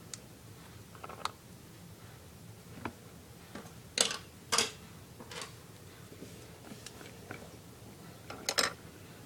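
Scattered light clicks and knocks of small plastic toy pieces being handled and set down, about half a dozen, the loudest a few seconds in and again near the end.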